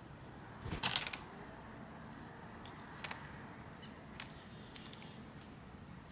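Small songbirds at a backyard feeder: a few short, high chip notes and clicks over a faint steady background, with a brief scratchy rattle about a second in as the loudest sound.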